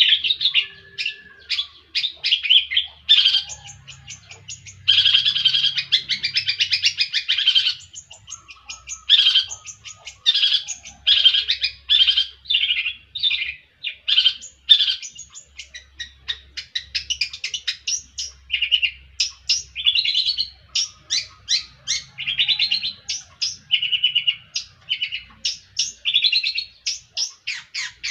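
Long-tailed shrike singing: a long run of rapid, scratchy chattering notes and short buzzy trills, phrase after phrase with brief gaps.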